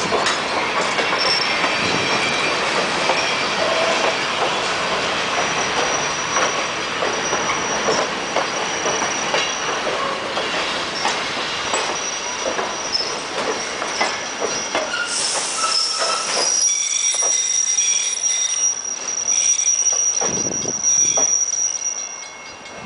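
Railroad cars of a heritage excursion train rolling on the rails. The wheels squeal in thin high tones, and clicks come from the wheels passing over rail joints. About two-thirds through, the low rumble drops away and a single high squeal carries on strongly.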